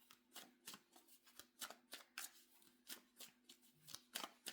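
Tarot cards being shuffled by hand: faint, quick card-on-card swishes, about three or four a second.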